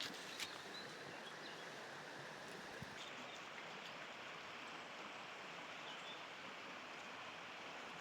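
Faint, steady outdoor background noise, with a couple of sharp clicks in the first half second.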